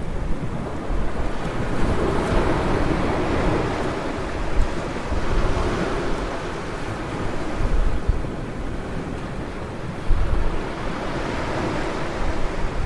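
Ocean surf washing onto a beach: a steady rush of noise that swells and eases every few seconds, with wind buffeting the microphone in low rumbles.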